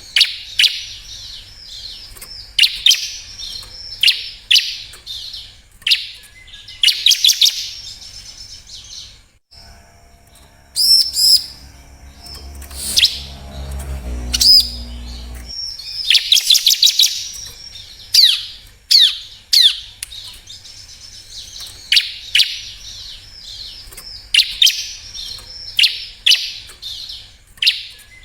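Bar-winged prinia (ciblek) singing: short, rapid, high chirping phrases repeated every second or two. About ten seconds in, the song thins for several seconds while a lower, steady-pitched sound runs underneath.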